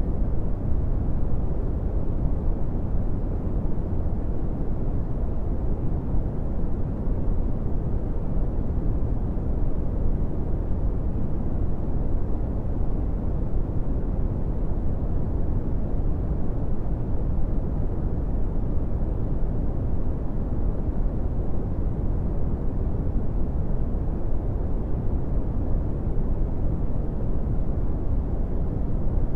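Steady brown noise: a constant deep rumbling hiss, strongest in the low bass and falling off toward the treble, with no changes.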